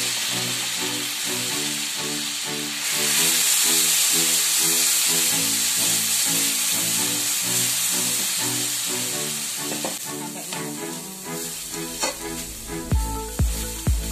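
Ground chili spice paste sizzling as it fries in hot oil in a wok, the sizzle swelling about three seconds in. In the second half a slotted metal spatula scrapes and knocks against the wok as the paste is stirred.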